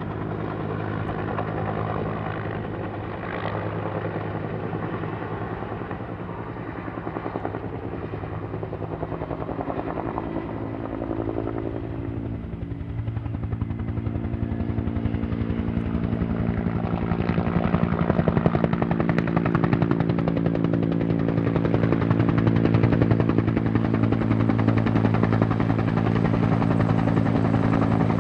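Helicopter running nearby, its rotor beating steadily over the engine's drone. It grows louder about halfway through as it comes closer.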